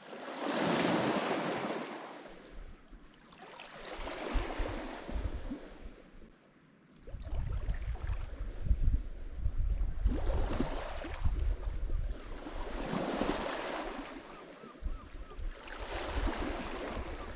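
Lake Michigan waves washing onto the shore, about five separate surges that each swell and fade. Wind buffets the microphone with a low rumble from about seven seconds in.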